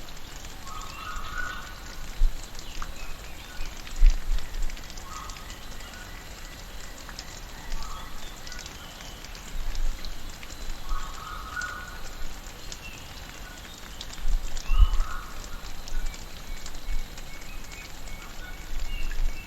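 Tropical rainforest ambience: rain dripping and pattering through foliage, with a short animal call repeating every three to four seconds.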